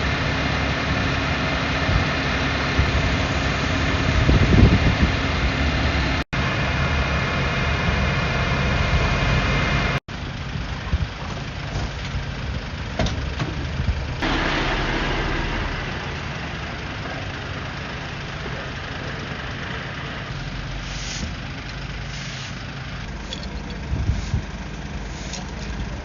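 Motor vehicle engine idling steadily, heard in several edited clips that cut abruptly about six and ten seconds in. After the second cut it gives way to a quieter rumble with a few short knocks.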